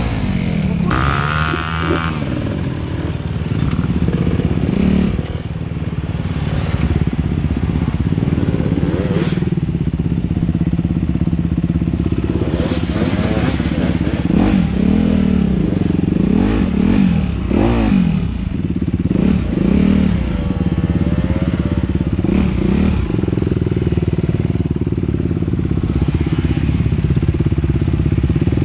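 Enduro dirt bike engine running close to the microphone as the bike rides a forest trail, its revs rising and falling over and over, with a run of quick rev swings in the middle.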